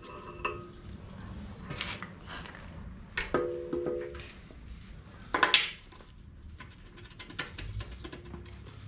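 Metal parts and hand tools clinking and knocking together, several hits ringing briefly; the loudest knocks come a little past three seconds in and again after about five and a half seconds.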